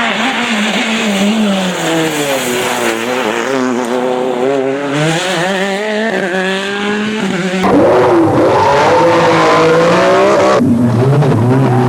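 Rally car engines revving hard on a stage. The engine pitch climbs through the gears and dips briefly at each shift. The sound cuts abruptly to a louder car about two-thirds of the way in, and changes again near the end.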